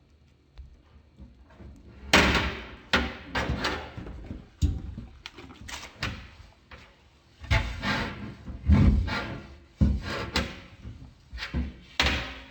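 Irregular knocks, bumps and clatter of hard household objects being handled, pulled out and set down, starting about two seconds in.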